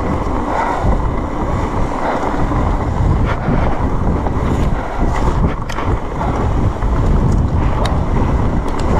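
Wind buffeting the microphone over the low rumble of a mountain bike riding a rough trail, with scattered sharp clicks and rattles from the bike.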